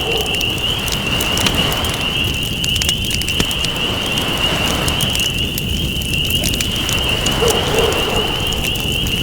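Campfire crackling with many small sharp snaps over a steady, swelling wash of ocean waves. A continuous high-pitched wavering trill runs under it, and a short low call sounds near the end.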